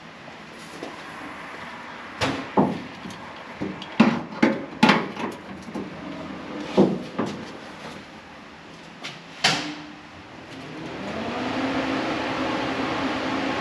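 Several sharp knocks and clunks of tools and metal parts being handled and set down. About eleven seconds in, a steady humming hiss sets in and keeps going.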